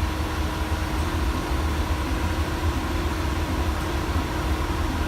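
Steady cockpit noise of a private jet in descent: a deep rumble and hiss of engines and airflow, with a steady hum running through it.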